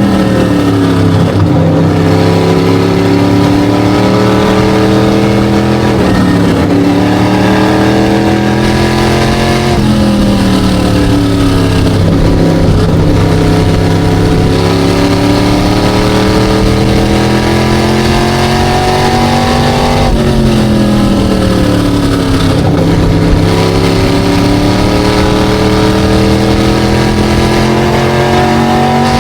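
SK Light modified race car engine at racing speed, its pitch dropping sharply as the throttle comes off and then climbing steadily again as it accelerates, several times over, roughly every ten seconds, as it laps the oval.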